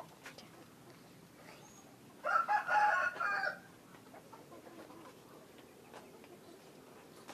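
Rooster crowing once, about two seconds in: a single crow lasting about a second and a half.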